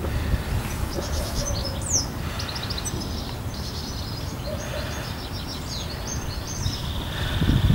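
Garden birds chirping and singing in short repeated phrases over a steady low rumble, with the rumble growing louder near the end.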